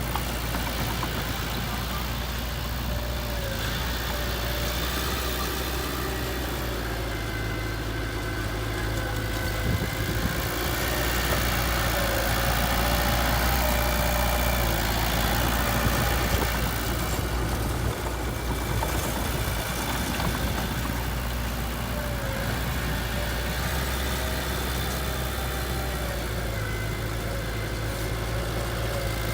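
Heavy machine's diesel engine running steadily at low revs, rising a little in level around the middle.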